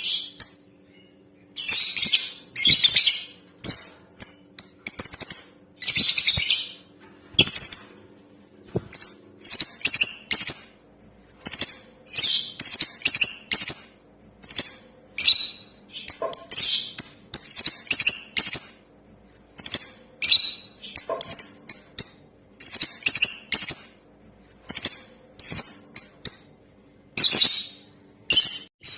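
Female lovebird calling: a run of shrill, high-pitched chattering chirps in short bursts, about one burst a second with brief pauses between.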